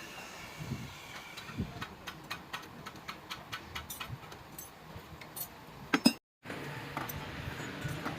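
Light metallic clicks and clinks of hand tools and engine parts being handled during work on a diesel engine, with two louder knocks about six seconds in, followed by a brief complete break in the sound.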